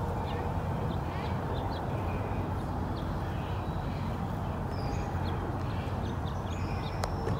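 Birds calling in short, scattered chirps over a steady low rumble.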